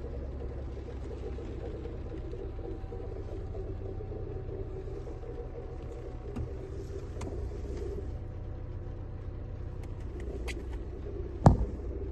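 Renault Mégane II 1.6 16-valve four-cylinder petrol engine idling cold, with a steady idle noise that came on after a clutch replacement; the owner finds it stops when the clutch pedal is pressed and goes away once the engine is hot. A single sharp knock near the end.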